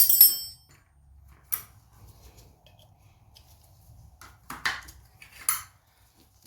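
Metal hand tools clanking and clinking: a loud ringing clank at the start, like a spanner set down on metal, then a few lighter metallic clinks.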